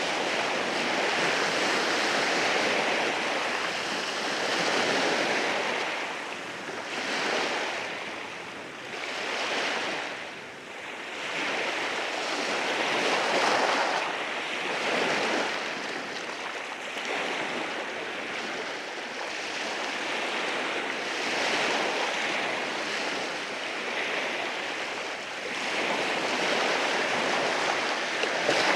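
Ocean waves breaking and washing in over rocks, a continuous surf hiss that swells and ebbs every few seconds.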